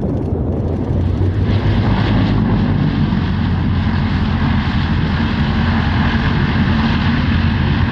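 Lockheed P2V-7 Neptune's engines running loud and steady on its landing roll just after touchdown, a deep propeller drone with a hiss above it.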